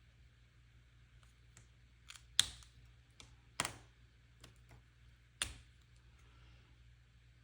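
Pens and planner paper being handled at a desk: three sharp clicks, the loudest about two and a half seconds in, with faint ticks and taps between, over a low steady hum.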